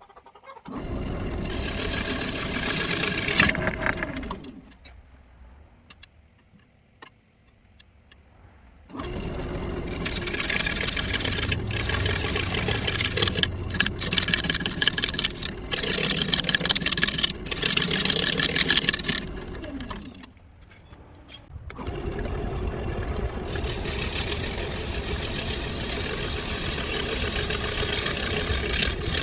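Wood lathe spinning a walnut blank while a turning tool cuts it, a loud grainy cutting noise with frequent sharp catches. About five seconds in the sound nearly stops for several seconds, then the cutting picks up again, with another short lull near twenty seconds.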